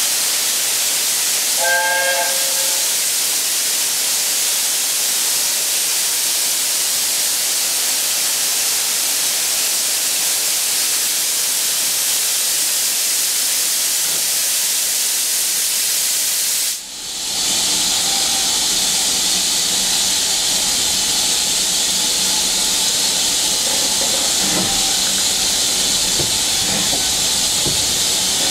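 Steam locomotive hissing steam loudly and steadily, with a short pitched tone about two seconds in. The sound drops out for a moment about two-thirds of the way through, then the hissing carries on.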